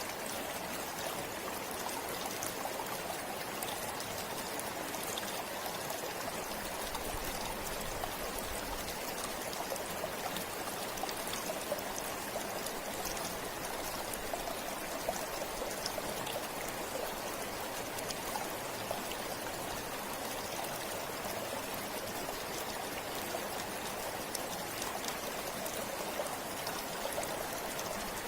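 River water flowing and babbling steadily over stones, with small splashes and trickles throughout.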